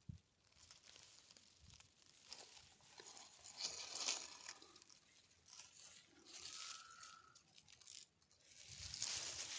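Faint rustling and crackling in uneven bursts, with a brief thump at the start and a short steady high tone about seven seconds in.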